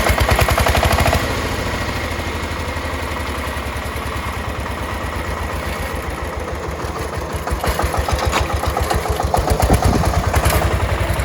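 Power tiller diesel engine running with an even firing beat. It is louder for about the first second, settles to a steady idle, and picks up again in the last few seconds.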